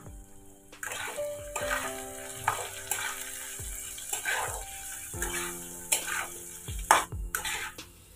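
Spatula stirring and scraping potatoes, onions and ground spices around a kadai of hot oil, which sizzles steadily. The sizzle comes up about a second in, with scraping strokes roughly once or twice a second.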